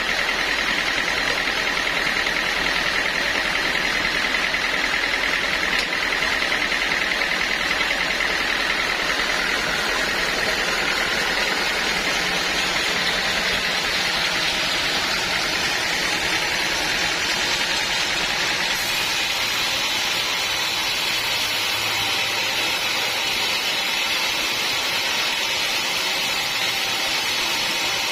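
Sawmill machinery running steadily: a continuous mechanical drone with a high whine. The whine drifts and the sound changes about two-thirds of the way through.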